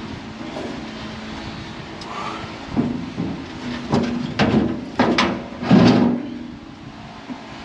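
Steel feeder house floor plates of a John Deere S670 combine scraping and clanking against the housing as they are moved into place: a run of scrapes and metal knocks from about three to six seconds in, over a steady low hum.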